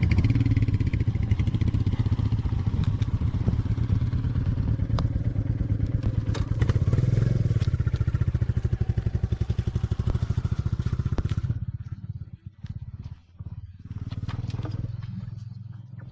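Royal Enfield Classic 500's single-cylinder engine running with a fast, even thumping for about eleven seconds, then dropping away to quieter, broken sound.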